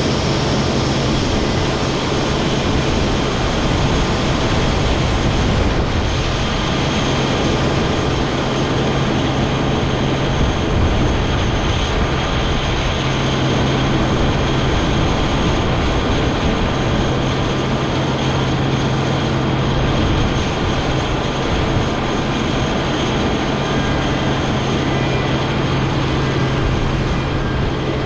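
International 1460 axial-flow combine running steadily at work: a constant engine and machinery drone with a strong low hum and a faint, steady high whine over it.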